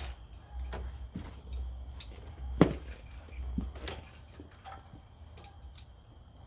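Scattered small clicks and knocks of hands and wire connectors being worked loose at a small generator's carburetor solenoid wiring, with one sharper click about two and a half seconds in. The handling grows quieter after about four seconds.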